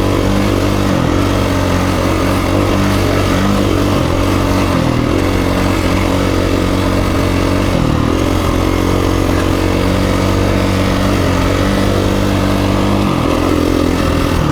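2017 KTM 350 EXC-F's single-cylinder four-stroke engine running under way on the dirt bike, pitch dipping briefly and climbing back about four times as the revs change.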